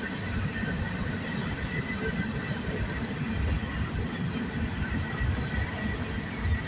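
Norfolk Southern freight train rolling past in a steady low rumble, with a faint steady high whine above it.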